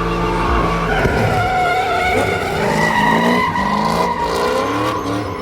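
Car engine revving hard, its pitch rising and falling, with tyres squealing.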